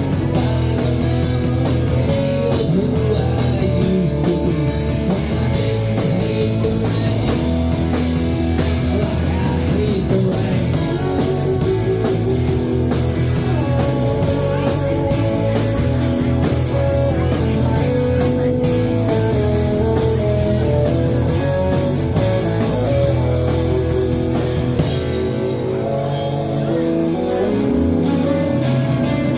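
Rock music with guitar and a drum kit playing at a steady level.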